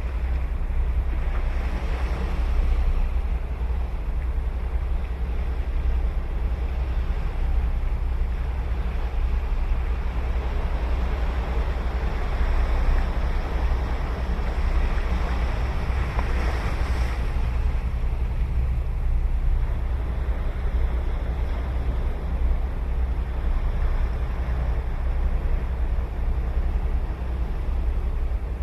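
Sea surf breaking and washing up the beach, swelling louder twice, most strongly about halfway through. Under it runs a steady low rumble of wind on the microphone.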